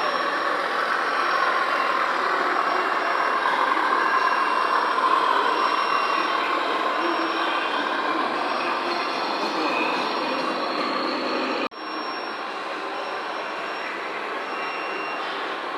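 Radio-controlled model trucks running, giving a steady mechanical whirring. About twelve seconds in the sound cuts off abruptly and comes back slightly quieter.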